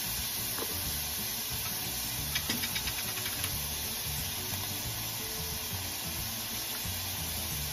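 Ground pork sizzling steadily in a stainless steel frying pan, with a quick run of light clicks about two to three and a half seconds in.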